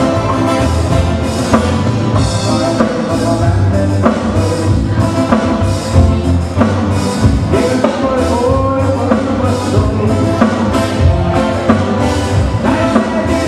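Live band playing an instrumental passage over a steady drum beat.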